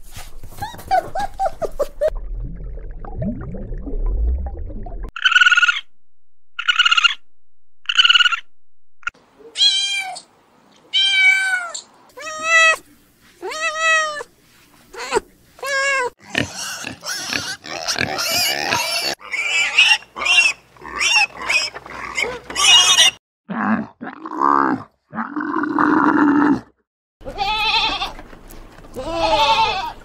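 Newborn kittens mewing: a run of high-pitched, thin mews, first spaced about a second apart, then coming faster and overlapping. The mews follow a few seconds of low rumble, and lower animal calls of another kind come in near the end.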